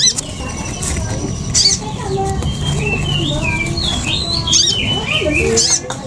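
Small birds chirping and twittering in short gliding calls, with brief flutters of wings or rustling about one and a half seconds in and again near the end.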